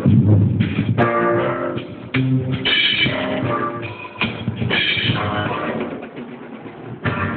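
A live band playing during a sound check: drum kit strikes under pitched notes from the guitar or bass. The sound is cut off above the upper treble, as from a phone's microphone.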